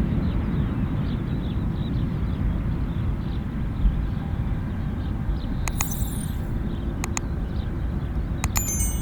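Steady low rumble of a Boeing 787-9 airliner's jet engines, with faint chirps and a few short clicks.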